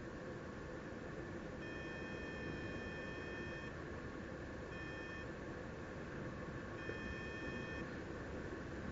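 A paragliding variometer sounding three steady electronic beeps: one of about two seconds, a short half-second one, then one of about a second. Each holds one pitch. Steady wind noise rushes past the microphone throughout.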